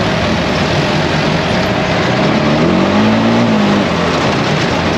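ATV engine running under way, its pitch rising and falling once as it revs up and eases off about halfway through, over a loud, steady rush of noise.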